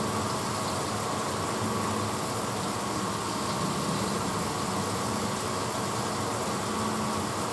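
1986 Hotpoint Potwasher dishwasher running mid-cycle: a steady motor hum under an even hiss of water spraying inside the tub.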